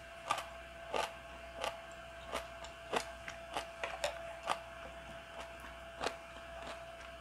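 Close-miked chewing of soybean-sprout and carrot porridge: soft, irregular wet clicks about once or twice a second, over a faint steady hum.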